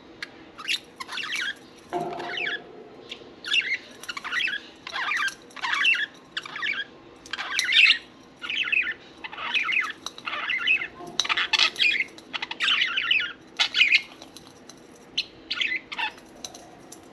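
Budgerigars chirping and chattering: a rapid, nearly continuous string of short warbling calls.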